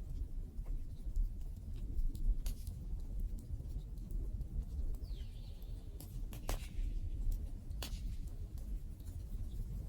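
Wood campfire burning: a low steady rumble with a handful of sharp crackles and pops from the burning wood, and a faint high whistling note falling in pitch about halfway through.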